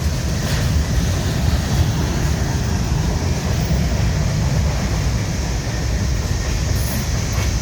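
Freight train cars rolling past on the rails, a steady low rumble with rattle.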